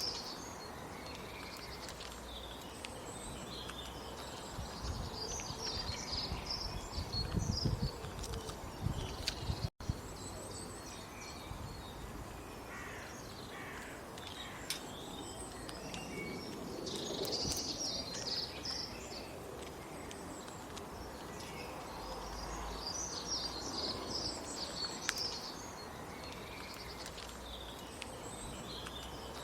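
Small birds chirping and calling in repeated short bursts over a steady outdoor background noise. A low rumble comes in about seven to nine seconds in, and the sound cuts out for an instant about ten seconds in.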